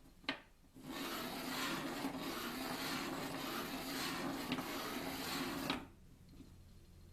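Battery-and-neodymium-magnet 'train' running through a bare copper wire coil, its magnets scraping steadily against the wire for about five seconds. A click comes just before it starts, and it stops suddenly with another click.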